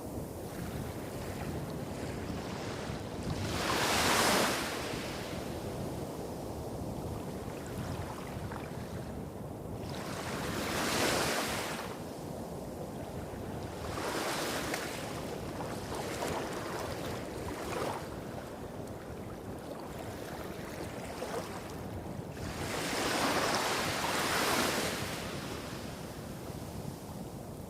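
Small sea waves breaking and washing up a beach, in four louder surges, the biggest about four seconds in and a long one near the end. Under them runs a steady low rumble of more distant waves hitting rocks.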